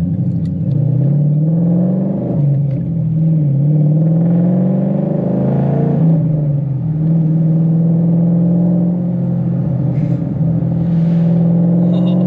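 Ford Mustang's 5.0-litre V8 heard from inside the cabin while driving. Its pitch climbs and drops back a couple of times in the first several seconds as it pulls and eases off, then holds a steady cruise.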